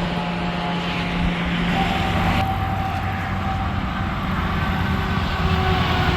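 Interstate traffic passing: the steady drone of semi-truck diesel engines over tyre and road noise, the hiss of one passing vehicle cutting off about two and a half seconds in.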